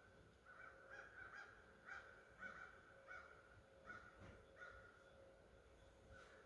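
Faint series of about eight short animal calls, evenly spaced a half second or so apart.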